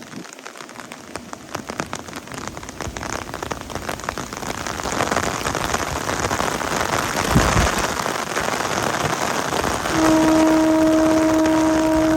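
A passing train's rumble and rail clatter grow steadily louder, and about ten seconds in the locomotive's horn sounds one steady held blast.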